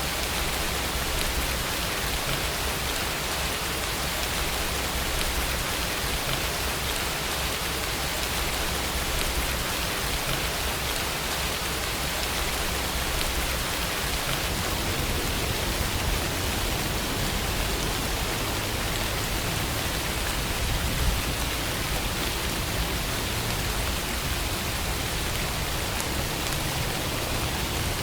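Steady rainfall, an even hiss of rain with a low rumble underneath. A single short click stands out about three-quarters of the way through.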